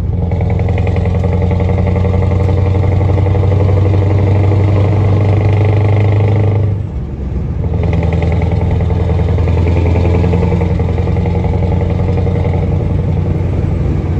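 Scania R580 truck's V8 diesel engine running loudly through an FKM exhaust, a steady low, pitched note with a brief drop in level about seven seconds in before it picks up again.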